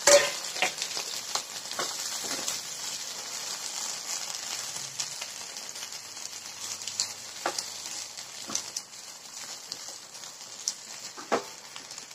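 Chunks of onion, tomato, green chilli, garlic and ginger sizzling in oil in a nonstick pan, with a wooden spatula knocking and scraping against the pan now and then as they are turned. A louder clatter comes right at the start.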